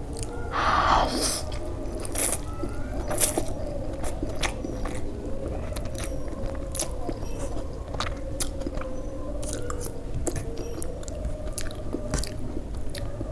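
Close-miked eating sounds: a bite about half a second in, then chewing with crunches and many sharp wet mouth clicks, over a faint steady hum.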